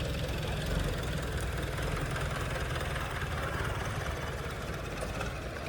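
A boat's engine running steadily at idle, a low, evenly pulsing engine sound.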